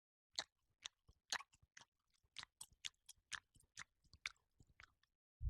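A series of short, crisp clicks or crunches, irregular but about two a second, like close-up chewing. Just before the end, a sudden very loud blast of noise cuts in.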